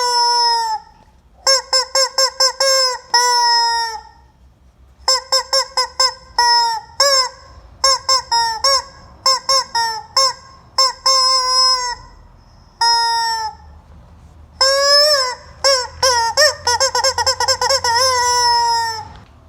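Rubber squeaky chicken toy squeezed over and over: groups of quick short squeaks alternate with longer drawn-out squawks that sag in pitch at the end, with brief pauses between the groups.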